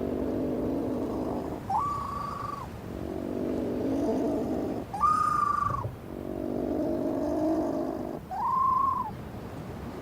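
A flightless bird calling in a repeated two-part pattern: a short, higher honk alternating with a longer, lower rasping note, the cycle repeating about every three seconds.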